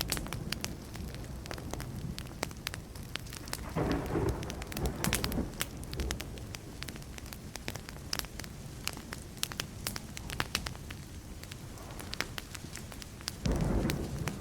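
Burning wood fire crackling with frequent sharp pops, over low rumbles of distant thunder that swell about four seconds in and again near the end.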